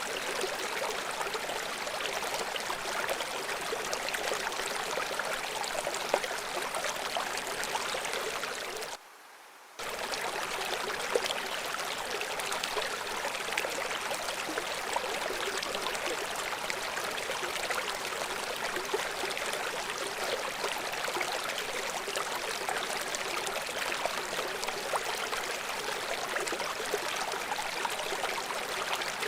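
River water rushing steadily over a small waterfall, a hissing wash with little bass. The sound drops away abruptly for under a second about nine seconds in, then returns.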